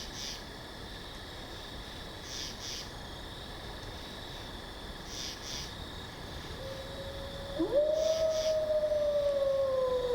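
A wolf's long howl starts about seven seconds in, swelling up and then sliding slowly down in pitch. Under it runs a steady forest background, with a bird giving a short double call about every three seconds.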